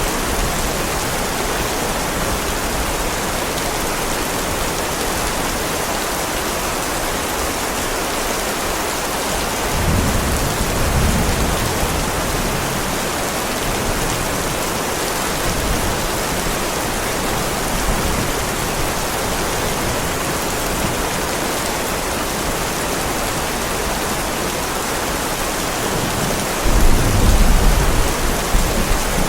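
Heavy rain falling steadily on a driveway, with a low rumble of thunder about ten seconds in and a louder thunder rumble near the end.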